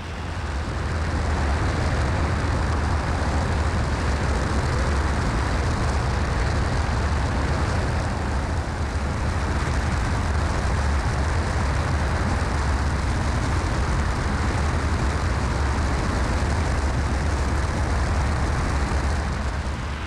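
Cessna 172SP's four-cylinder Lycoming engine and propeller droning steadily in flight, heard inside the cabin with wind rush over the airframe. It fades in at the start and fades out near the end.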